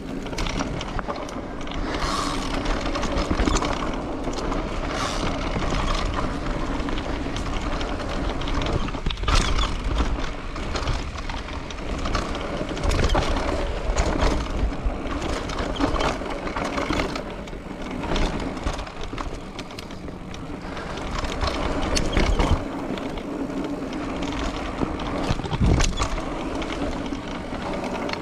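Mountain bike riding over a dirt trail: continuous tyre and drivetrain noise with wind rumbling on the microphone, and occasional sharp knocks and rattles as the bike hits bumps.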